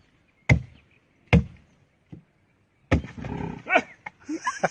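Sharp strikes or knocks, one about every 0.8 s, followed near the end by an animal's vocal calls.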